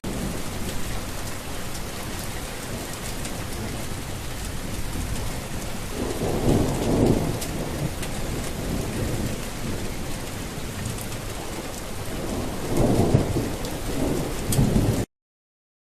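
Steady rain with two low rolls of thunder, the first about six seconds in and the second near the end. The sound cuts off abruptly.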